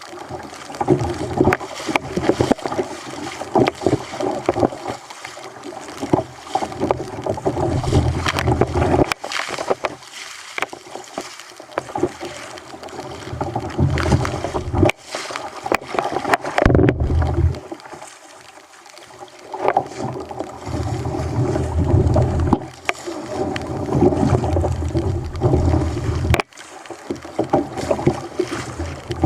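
Sea water sloshing and slapping against a fishing kayak's hull on choppy water, coming and going in surges every few seconds, with sharp knocks and wind buffeting the microphone.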